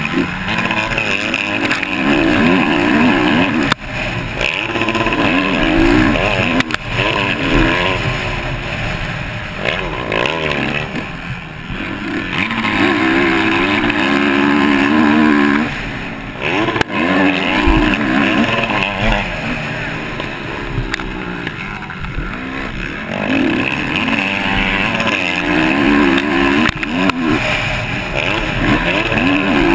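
Motocross bike engine heard from on the bike, revving up and falling back again and again as the throttle is opened and closed, with a few brief drops where the throttle is shut.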